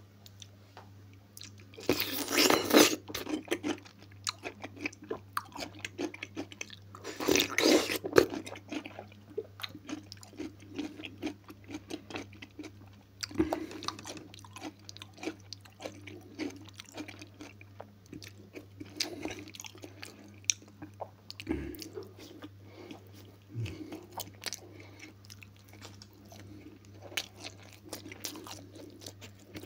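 Loud crunching bites into a whole pickled cucumber, twice, about two and seven seconds in, followed by close-miked chewing with small wet clicks and smacks. A low steady hum sits underneath.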